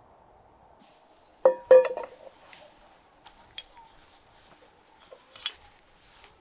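Metal camp cooking gear being handled: two or three sharp ringing clinks about a second and a half in, then a few lighter clicks and knocks.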